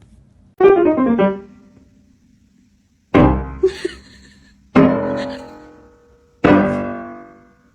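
Piano playing: a quick downward run of notes, then three chords struck about one and a half seconds apart, each left to ring out and fade.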